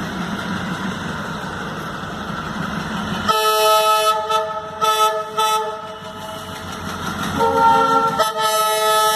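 A train locomotive's engine running with a low rumble, then its multi-tone horn sounds about three seconds in: a long blast broken by a few short gaps, and another blast starting near the end.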